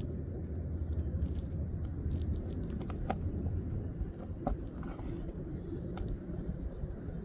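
A handful of light, separate metallic taps: a roofing tool being tapped gently to work a shingle nail loose, over a steady low rumble.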